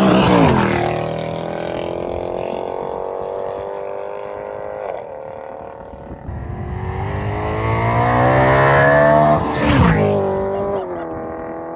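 A 2014 Mercedes C63 AMG's 6.2-litre V8, with its secondary cats and resonators deleted, pulling hard under load, heard from inside the cabin. The engine note climbs steadily in pitch for a few seconds, then drops sharply at a shift or lift about ten seconds in, with a loud rush of noise at that moment.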